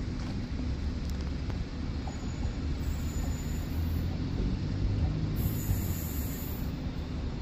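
Low, steady rumble of a Northern diesel train approaching the station, growing a little louder about halfway through.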